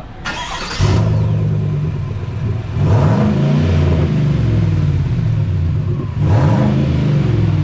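Vehicle engine starting about a second in and idling, then revved twice, sounding through a trial muffler setup being compared by ear at a muffler shop.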